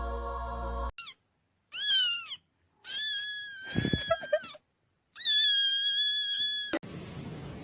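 A steady hum for about the first second, then a cat meowing four times: a brief high chirp, a short meow, and two long drawn-out meows.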